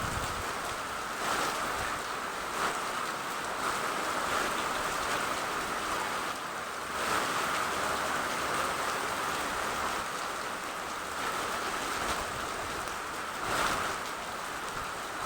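Steady rain, an even hiss that swells a few times.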